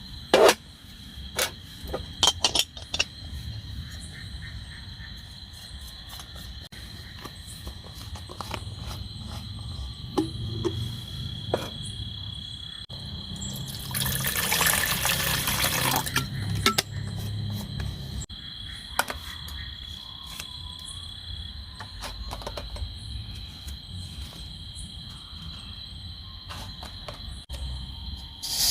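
Night insects chirring steadily in a high, even drone, with scattered sharp clicks and knocks, the loudest in the first few seconds. A burst of hissing noise lasts about two seconds halfway through.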